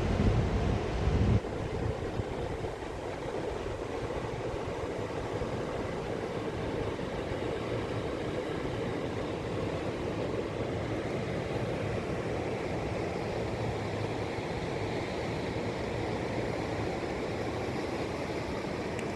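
Fast-flowing mountain river rushing steadily. Wind buffets the microphone with a low rumble for the first second and a half, then stops suddenly.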